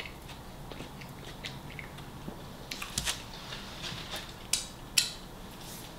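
Close-up chewing of a sandwich, with wet mouth clicks and lip smacks. A handful of sharp clicks stand out, the loudest about five seconds in.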